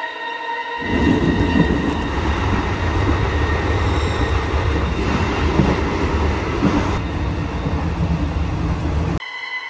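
Moving third-class train carriage heard from inside the car: a loud, steady running rumble with rattling. It cuts in about a second in and stops abruptly near the end, and sustained music tones are heard at either edge.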